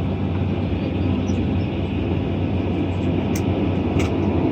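Cabin noise of a Boeing 767-300ER taxiing after landing: a steady low rumble with a hum, and two light clicks near the end.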